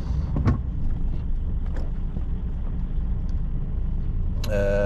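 Lorry's diesel engine rumbling steadily, heard from inside the cab, with a few faint clicks. Near the end, a short steady pitched tone sounds for under a second.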